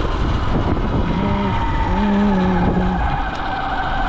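Motorcycle engine running while riding, its note easing slowly downward, with heavy wind rumble on the chest-mounted camera's microphone.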